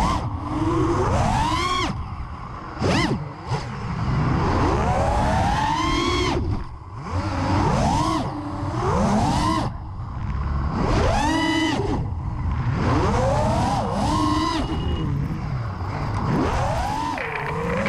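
Brushless motors of a 5-inch FPV freestyle quadcopter (T-Motor F60 2450KV) whining and surging as the throttle is punched and cut: the pitch sweeps up and falls back about ten times. A low rush of air runs underneath.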